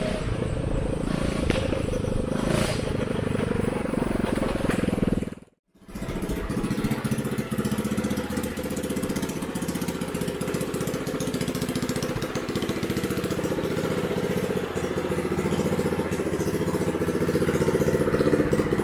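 Straight-piped Predator 212 single-cylinder four-stroke engine on a home-built rice tractor running at a steady pace. The sound cuts out completely for a moment about five and a half seconds in, then the engine is heard again.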